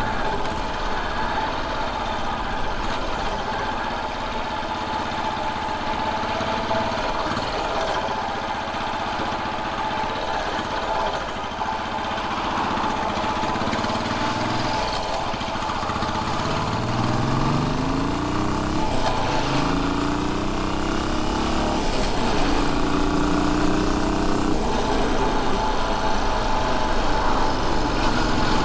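Royal Enfield Bullet 500's single-cylinder engine running on the road. From about halfway, the engine note climbs and drops back several times in succession, as when the bike accelerates up through the gears.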